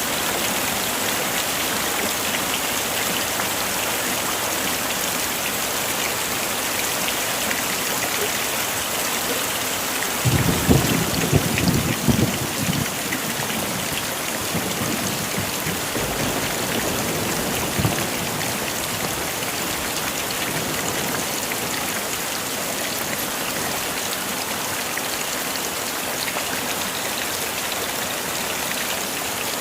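Heavy rain falling steadily, with a rumble of thunder lasting two or three seconds about a third of the way in and two shorter, fainter low thumps a few seconds later.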